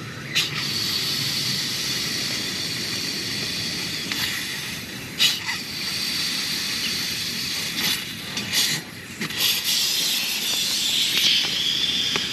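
Klymit Static V inflatable sleeping pad being blown up by mouth: long exhalations hiss into the valve, broken by a few short pauses for breath.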